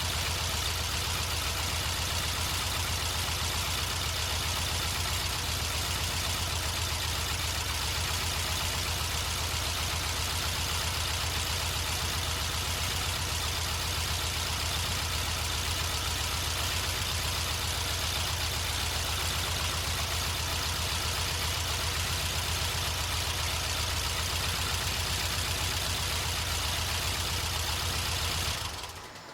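Air-cooled 2.0L VW Type 4 flat-four with dual Weber 40 IDF carburetors idling steadily just under 900 rpm, with no revving. The sound stops near the end.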